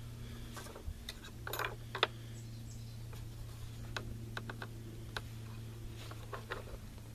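Light, irregular clicks and taps of small rifle parts and tools being handled during an AR upper assembly, over a steady low hum.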